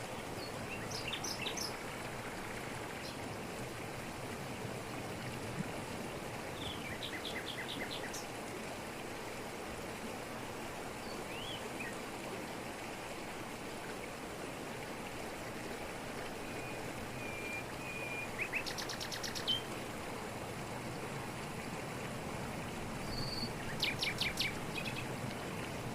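Waterfall splashing down over rocks in a steady rush, with forest birds calling over it in short bursts of chirps and rapid trills, loudest near the end.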